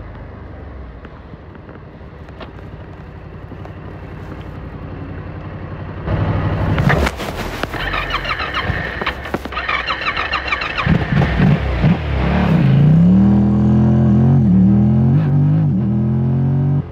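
Yamaha R7's parallel-twin engine heard from the rider's seat. It runs low and steady at first, then about six seconds in it suddenly gets louder and rougher. In the last few seconds the engine revs, its pitch rising and falling.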